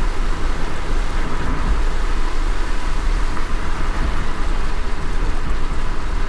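A car driving in light rain: a steady low road rumble with an even hiss of rain.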